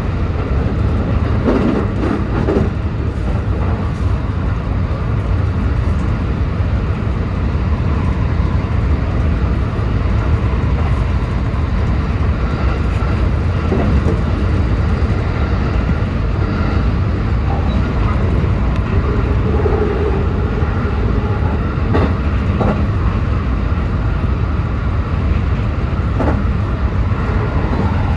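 JR West 223 series electric train running at speed: a steady rumble of wheels on rail with a few faint clicks.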